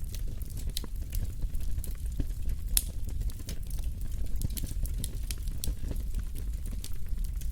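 Wood fire burning in a fireplace: a steady low rumble with scattered sharp crackles and pops, one louder pop about three seconds in.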